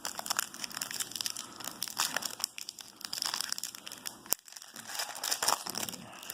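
Crinkling and rustling of baseball trading cards and their foil pack being handled, in irregular bursts, with one sharp click about four seconds in.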